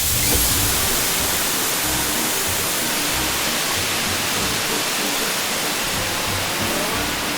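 High-pressure water spray hissing steadily as washing-machine parts are jet-washed, starting abruptly, with background music underneath.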